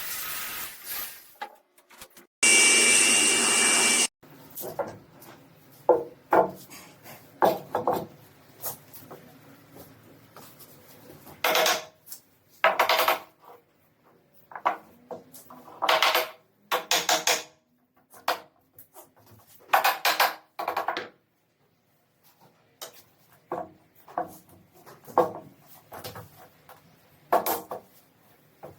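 Woodworking on boards: irregular strokes of wood scraping, rubbing and knocking, as in rasping, sawing and handling timber. About two to four seconds in there is a brief, loud, steady burst from a power tool.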